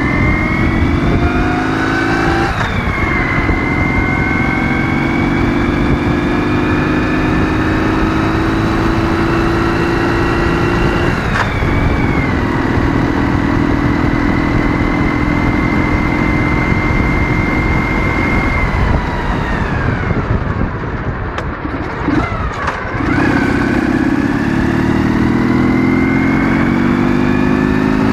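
Ural motorcycle's 650 cc flat-twin engine under way, accelerating through the gears: its pitch climbs, drops at a gear change about two and a half seconds in and again about eleven seconds in, then holds steady at cruise. Around twenty seconds in the engine eases off for a few seconds, then pulls up in pitch again near the end.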